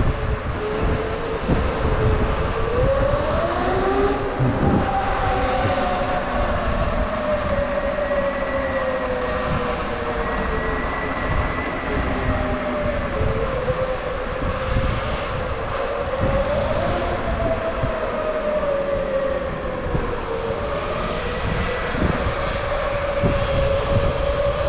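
Sur Ron electric dirt bike's motor whining while riding, its pitch rising and falling as the bike speeds up and slows, over a steady rumble of wind on the microphone.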